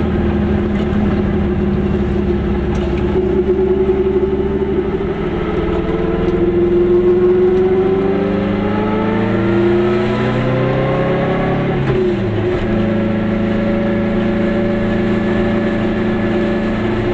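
Goggomobil's air-cooled two-stroke twin-cylinder engine heard from inside the small car. It pulls steadily, rises in pitch as the car accelerates through a gear, drops sharply at a gear change about twelve seconds in, then runs steadily again.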